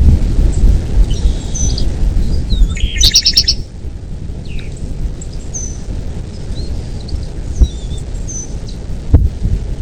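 Birds chirping in short, high calls, with a louder rattling trill about three seconds in. Underneath runs a heavy low rumble, and two sharp thumps come near the end.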